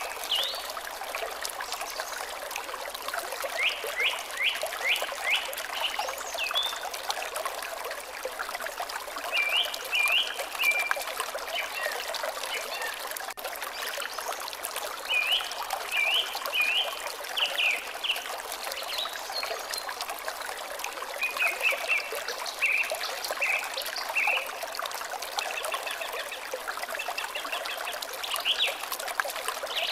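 Steady trickling of flowing water, with a songbird singing short runs of quick notes every few seconds, about five phrases in all.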